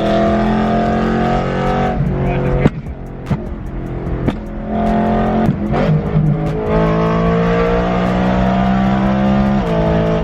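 BMW E92 M3's 4.0 L V8 through a straight-piped exhaust, pulling hard with the pitch climbing slowly. About three seconds in it drops off sharply into a series of exhaust pops and cracks, then builds and pulls again, dropping in pitch again near the end.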